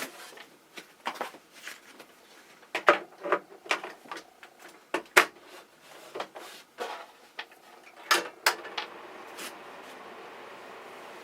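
Irregular clicks and knocks from a small 15 cm ventilation fan being handled and switched, then about nine seconds in a steady whoosh as the fan starts to run.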